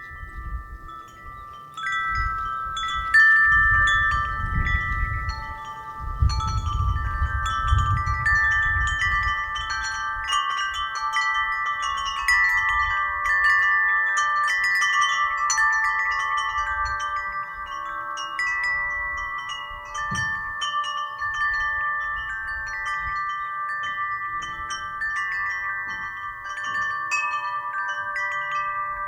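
Wind chimes ringing in the wind, many notes struck over and over and ringing on, growing busier about two seconds in. Gusts of wind rumble on the microphone during the first several seconds.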